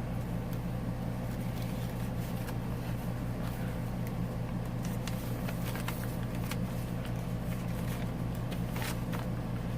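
Steady low background hum, with a few faint soft clicks of paper being handled.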